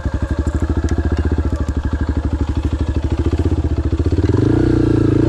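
Motorcycle engine running at low revs with an even rapid pulse while moving off on a muddy trail, then revving up about four seconds in.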